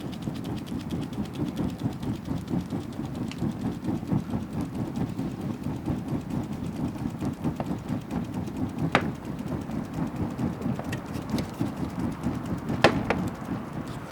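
Wood bonfire burning with a steady low rumble and a few sharp crackling pops, one about nine seconds in and two close together near the end.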